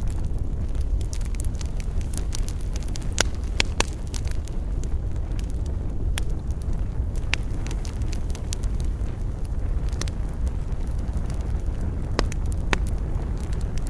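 Wood fire crackling: irregular sharp pops and snaps, a few louder ones standing out, over a steady low rumble.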